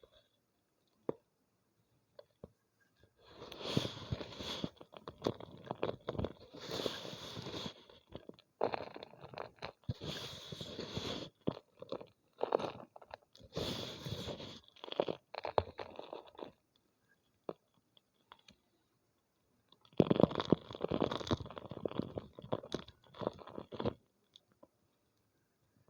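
Homemade gym chalk being crushed and crumbled, making a dense crunching crackle. It comes in several bursts of a few seconds each, with a pause of a few seconds before a last burst near the end.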